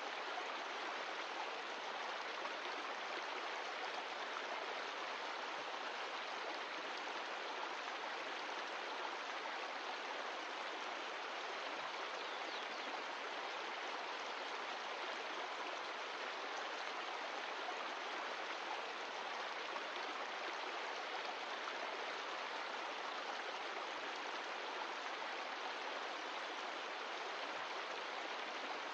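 Mountain stream of glacial meltwater running steadily, an even rushing of water that does not change.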